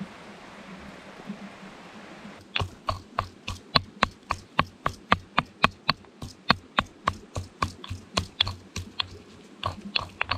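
A knife chopping on a cutting board, starting about two and a half seconds in and going on in a quick, even rhythm of about four crisp strokes a second.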